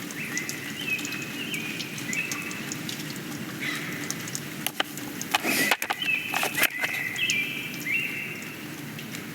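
A songbird singing the same short phrase of stepped whistles over and over, about every second and a half, over a steady low room hum. A few sharp knocks and scrapes come about five to seven seconds in.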